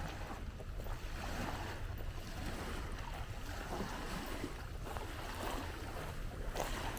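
Steady outdoor seafront noise: wind rumbling on the microphone over a wash of small waves.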